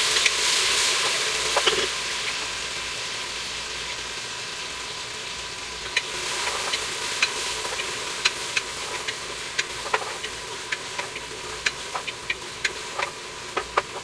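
Chopped tomatoes and onions sizzling in hot oil in an aluminium pressure cooker while a wooden spoon stirs them, clicking and scraping against the pot. The sizzle is loudest at first and eases off over a few seconds; from about six seconds in, the spoon's sharp clicks come scattered through it.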